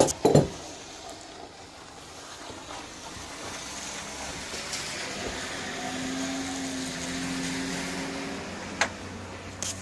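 Two sharp knocks at the start, then a motor vehicle's engine hum that swells over several seconds and fades again, like a vehicle going by. A couple of light clicks come near the end.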